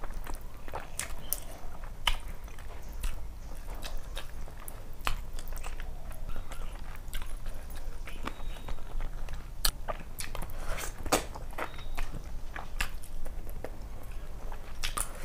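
Close-miked chewing and biting, with many irregular sharp mouth clicks, as a mouthful of rice and fish curry is eaten by hand. A faint low hum runs underneath.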